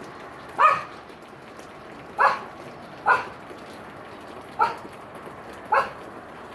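A dog barking five times, single short barks roughly a second apart, over the steady hiss of falling rain.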